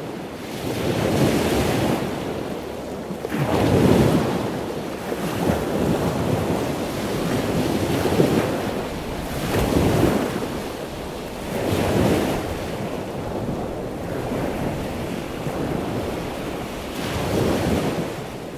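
Ocean waves washing, a rushing noise that swells and fades every few seconds.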